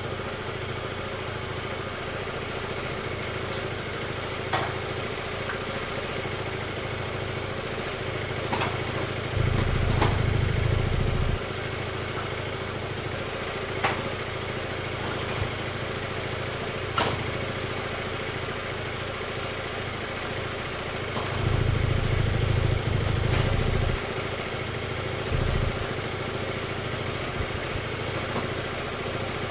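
Scooter engine idling steadily, with louder low rumbling stretches about ten seconds in and again past twenty seconds. Several sharp clicks sound over it.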